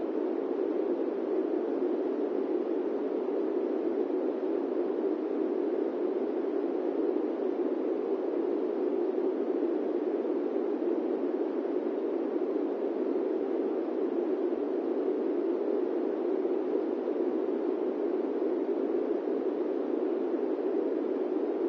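Airplane-cabin white noise: a steady, even rush centred in the low-middle range, with no changes or distinct events.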